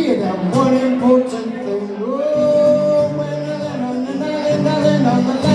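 Live acoustic song: a male singer holds a long, sliding note, with no clear words, over strummed acoustic guitar.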